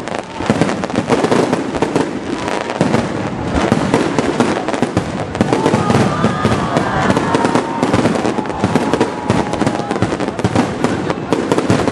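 Aerial fireworks display: a dense, unbroken barrage of shells bursting and crackling, with many sharp bangs in quick succession.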